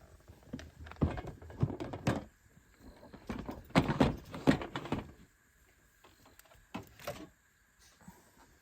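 Irregular knocks, thuds and rustling from objects being handled, in two busy spells about a second in and about four seconds in, then a few single clicks near the end.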